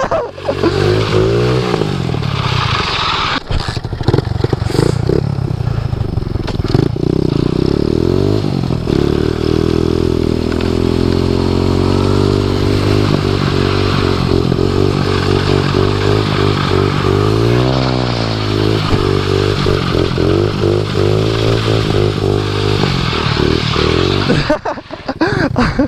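110cc pit bike engine running at high revs, its pitch rising and falling as the throttle is worked while the trike drifts, with a dip and climb in revs about two-thirds through. The engine drops away near the end.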